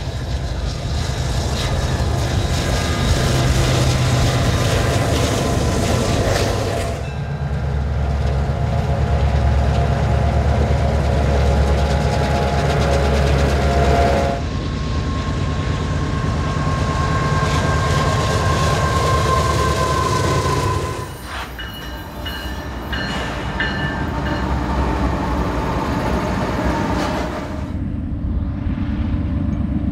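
Diesel freight trains passing: locomotive engines drone low under the rumble and clatter of freight cars on the rails. The sound changes abruptly every seven seconds or so as one train gives way to another. In the middle stretch a held higher tone sounds over the train noise.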